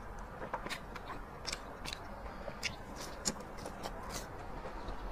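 A person chewing and biting into a scallion-oil egg pancake, close to a clip-on microphone: irregular short, crisp mouth clicks and crunches.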